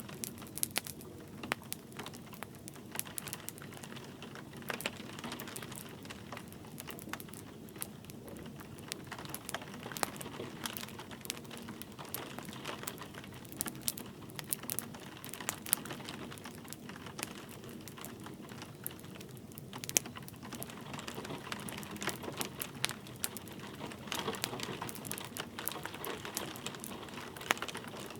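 Wood fire crackling with irregular sharp pops and snaps over a steady patter of gentle rain.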